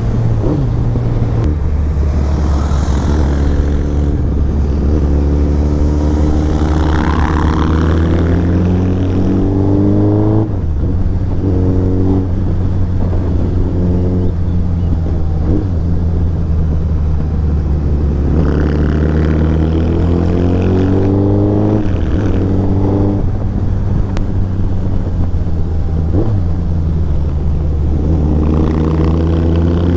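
Royal Enfield Interceptor 650's parallel-twin engine, fitted with an aftermarket exhaust, pulling hard under acceleration. Its pitch climbs through each gear and drops back at every upshift, several times in a row.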